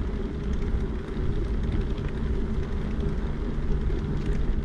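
Steady engine and road rumble of a Ford Transit camper van heard from inside the cabin while driving.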